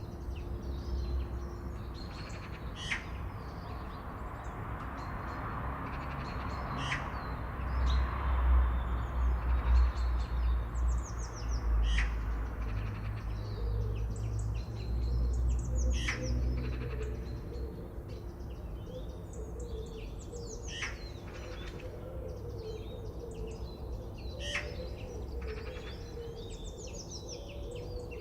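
Several wild birds singing and calling together, with repeated quick descending trills and sharp chirps. A low rumbling hiss swells up through the first half and fades again.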